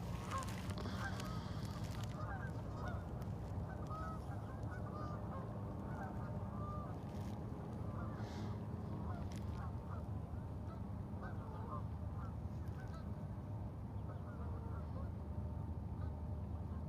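Many short honking bird calls, from a flock of birds calling over and over in quick succession, over a steady low rumble.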